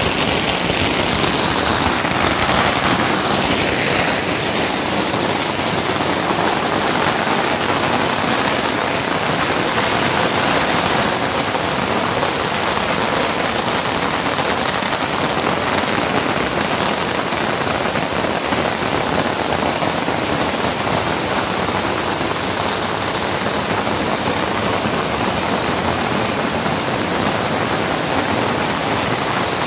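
Strings of firecrackers going off together in a dense, continuous crackle.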